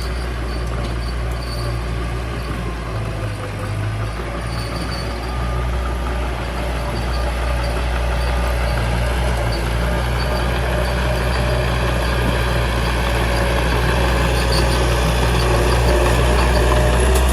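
Small bulldozer's diesel engine running steadily with a low drone, growing gradually louder over the second half.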